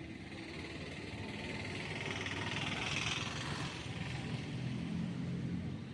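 A motor vehicle going by: a low rumble with a hiss that swells to its loudest about three seconds in, then fades.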